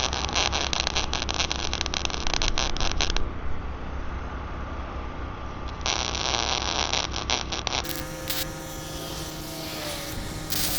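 Small wire brush scrubbing a fresh weld on a steel pole: two spells of quick, scratchy strokes, one about three seconds long and one about two, over a steady low engine hum. Near the end the sound cuts to a different, steadier scene.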